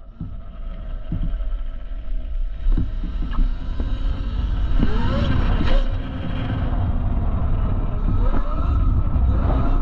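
A QS138 70H electric mid-drive motor on a converted dirt bike whines under hard acceleration, its pitch rising about halfway through and again near the end. Heavy wind rumble on the helmet or body camera microphone runs underneath.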